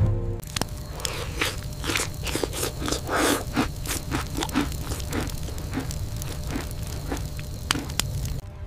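Crunchy biting and chewing on roasted meat: a dense, irregular run of crunches and tearing sounds that stops shortly before the end, over a low steady rumble.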